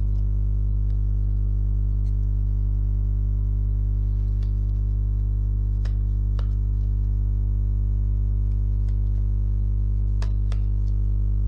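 A steady low drone of layered sustained tones, like ambient background music, holding an even level throughout, with a few faint short clicks in the middle and near the end.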